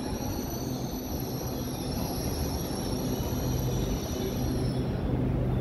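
Train moving through a station: a low rumble with a steady hum, and faint high-pitched wheel squeal that fades out about five seconds in.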